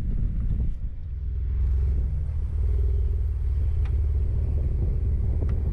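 Jeep Wrangler JK's engine running with a steady low hum that settles in about a second in, under a low rumble of wind on the microphone.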